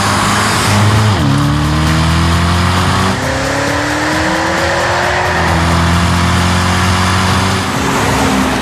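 BMW Alpina B6's V8 engine through its Akrapovic titanium exhaust, accelerating hard: the engine note climbs steadily, with drops in pitch about a second in and about five and a half seconds in, as at upshifts.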